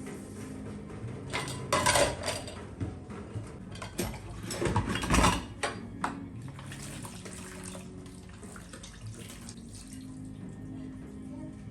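Tap water running and splashing in a sink, with dishes clinking; loudest in two bursts, about two and five seconds in.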